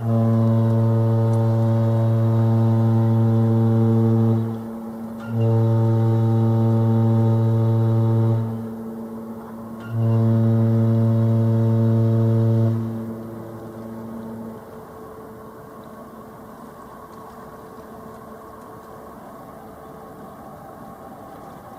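Cruise ship's horn sounding three long blasts, each about three to four seconds of one low, steady note, the last one echoing for a moment as it dies away.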